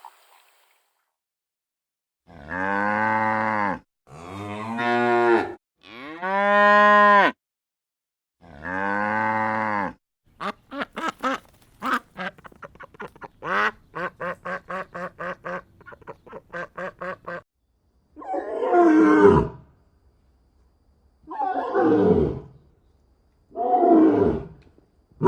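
A cow mooing four times in long calls, followed by a run of quick, repeated quacking calls of ducks. Near the end come three rough, hoarse calls from another farm animal.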